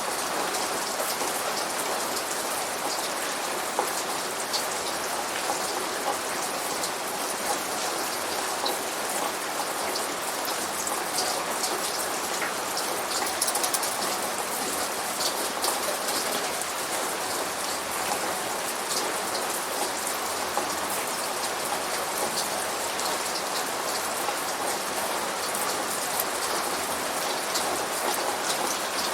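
Steady rain with many small drops pattering on a surface, unchanging throughout, with no thunder.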